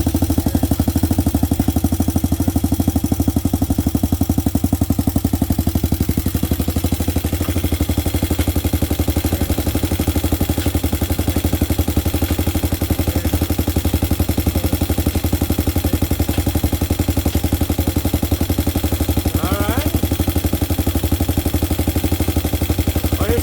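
Hawk 250 dirt bike's single-cylinder four-stroke engine running steadily with a rapid, even pulse.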